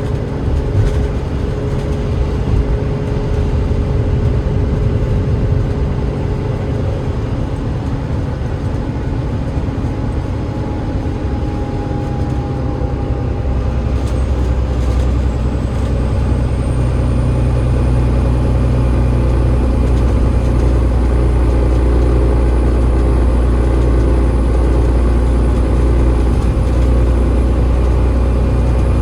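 Cummins ISL8.9 diesel engine of an Enviro500 MMC double-decker bus running under way, heard from on board: a steady low drone that strengthens about halfway through, with a faint high whine that rises and then holds.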